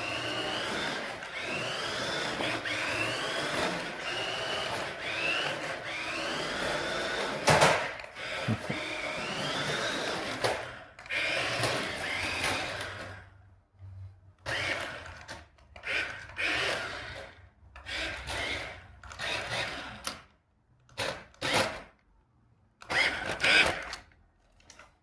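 Small electric motor of a 1:14 Hoonigan RC drift car whining, its pitch rising again and again as it speeds up in short spurts, with one sharp knock about seven seconds in. From about halfway on it runs in short separate bursts with pauses between.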